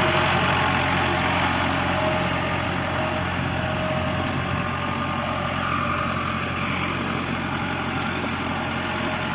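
1990 Case 585 tractor's 3.4-litre four-cylinder diesel engine running steadily as the tractor is driven in low range.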